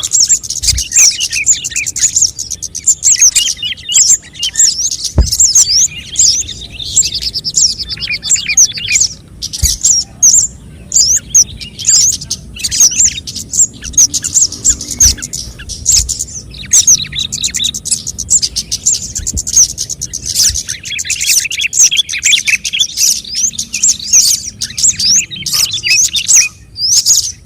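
Scarlet-headed flowerpeckers (cabe jawa) calling: a dense, continuous stream of rapid, high-pitched chirps, as played for luring the birds in.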